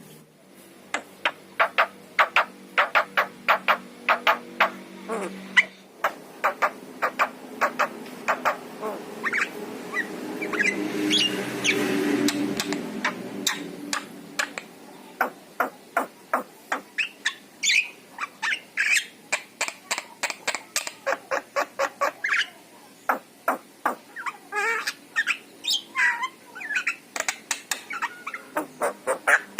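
Javan myna (jalak kebo) calling: rapid runs of short sharp clicking and chattering notes, with a louder, rasping stretch about ten to fourteen seconds in.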